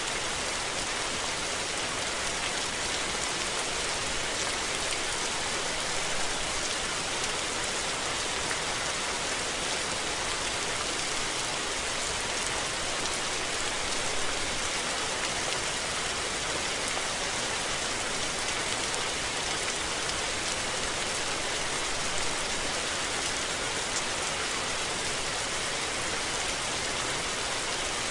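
Steady rain falling and pattering on surfaces, an even hiss of many drops with a few individual drops ticking now and then.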